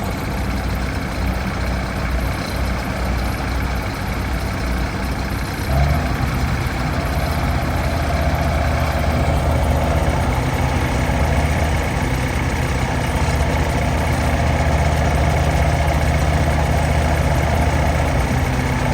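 Heavy diesel machinery engines running under load as a tractor tries to pull a combine harvester stuck in deep mud. About six seconds in, the engine gets louder and settles into a stronger steady note as the pull takes up the strain.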